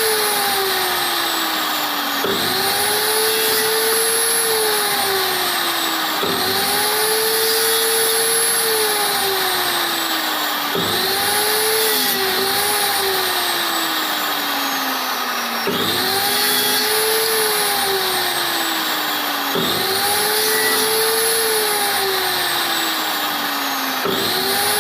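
Electric power tool's motor whining, its pitch jumping up and then sagging slowly as it is loaded, over and over about every four seconds.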